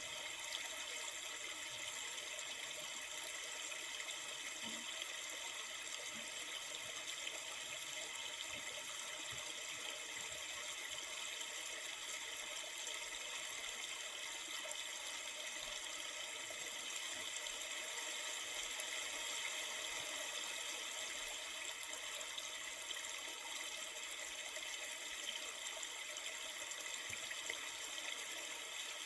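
River water flowing: a steady, even rushing hiss that does not change.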